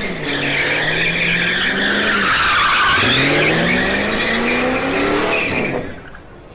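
Car engine revving hard while its tyres squeal and skid, as in a drift or donut at a car meet; the engine pitch sinks and climbs again, and the sound drops away sharply near the end.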